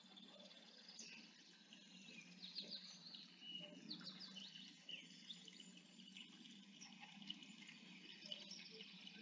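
Near silence with faint, scattered bird chirps and a faint steady low hum.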